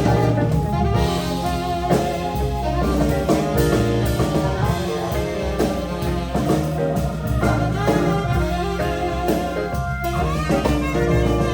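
Live jazz band of organ, electric guitar, drum kit and saxophone playing an instrumental passage without vocals.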